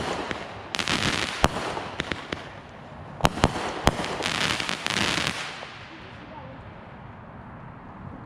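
Consumer fireworks going off: crackling and hissing with several sharp bangs, most of them a little after three seconds in. They die down after about six seconds.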